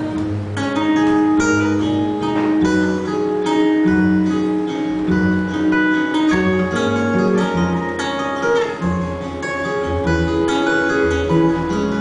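Acoustic guitar playing an instrumental break in a folk-pop song, picked notes over a steady bass line, with no singing.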